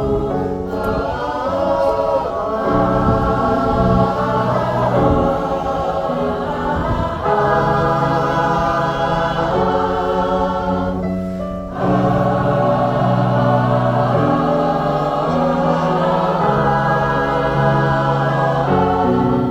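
Pop choir singing long-held chords in several voice parts, the chord changing every second or two, with a short break about twelve seconds in.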